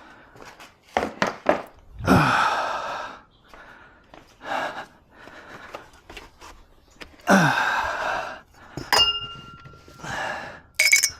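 Plastic footwell trim cover being worked loose by hand: bursts of scraping and rustling with scattered clicks, and a small hard part clinking with a brief ring about nine seconds in.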